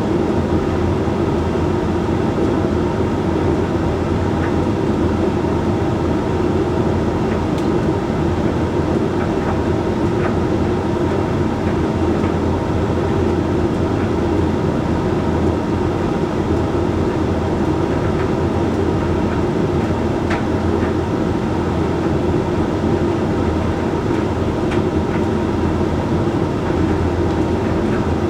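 Hoover Link X Care HLX C10DRGR condenser tumble dryer running a Whites cycle: steady drum rumble and motor hum, with a few faint light clicks now and then.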